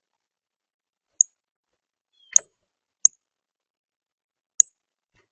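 Four sharp, high chip notes of a northern cardinal, spaced irregularly with silence between them.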